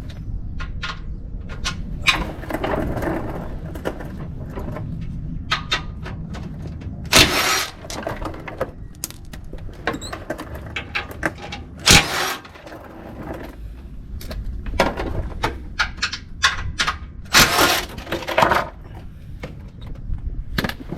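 Scattered knocks, clicks and scrapes from the freshly removed plastic skid plate and hand tools being handled under a pickup truck. Three louder bursts of noise come about seven, twelve and eighteen seconds in, over a low rumble.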